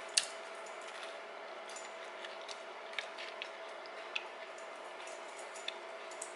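Quiet chewing of a bite of baked brownie: a sharp click just after the start, then a few soft mouth clicks over a faint steady hum.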